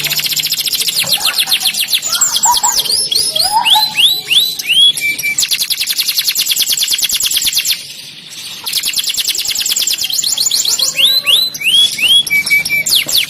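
Domestic canary singing: long, very fast rolling trills alternating with short series of downward-sweeping whistled notes. The song drops away briefly about eight seconds in, then resumes with the same rolls and swoops.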